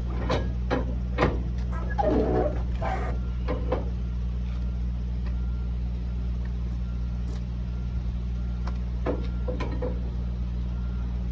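Truck engine idling with a steady low hum, with scattered clicks and knocks in the first few seconds and again near the end.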